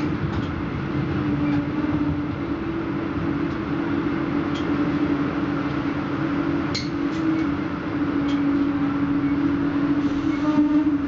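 Passenger train running, heard from inside the carriage: a steady hum over a continuous rumble, with a few short sharp clicks about halfway through.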